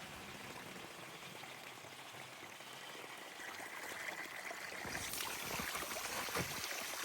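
Steady rushing noise, like running water or wind, growing louder and crackly in the last two seconds and cutting off abruptly at the end.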